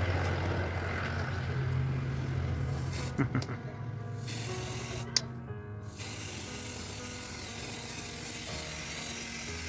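Paint being sprayed onto a fridge door panel: a steady hiss that breaks off for a couple of seconds near the middle, with a click or two, then starts again about six seconds in.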